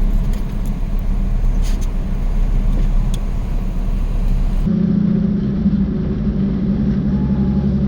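A Jeep engine runs steadily while driving, with a low hum and rumble. About five seconds in, the sound shifts abruptly: the hiss drops away and the engine hum comes through stronger.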